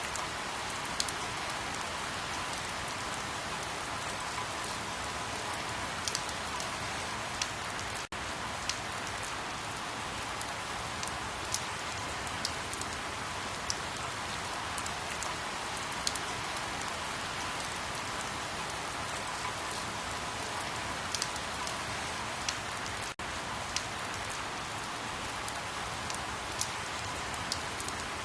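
Steady rain: an even hiss with scattered sharper drop ticks. It cuts out for an instant twice.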